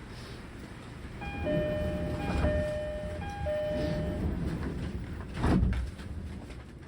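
E231-series commuter train door chime: three high-then-low two-tone pairs, over a low rumble. About five and a half seconds in, a loud thud follows, the doors sliding shut before departure.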